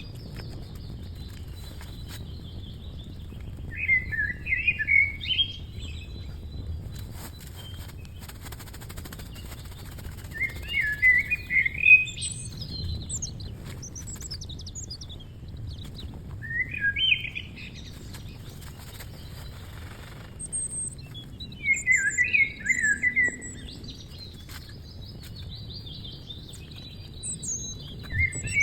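A songbird singing short, quick warbling phrases, one roughly every five to six seconds, over a low steady background noise.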